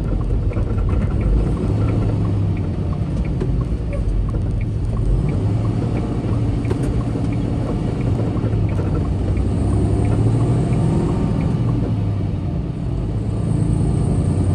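Semi truck's diesel engine running steadily under way, a continuous low rumble with road noise, and a light regular ticking over it.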